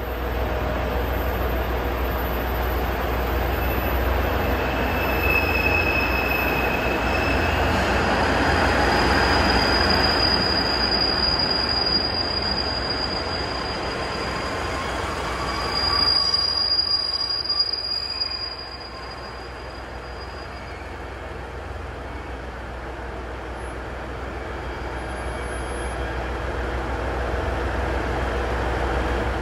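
Electric train running along a station platform, with a high, steady wheel squeal from about ten seconds in to about nineteen seconds in. The running noise swells, then drops off after the squeal ends.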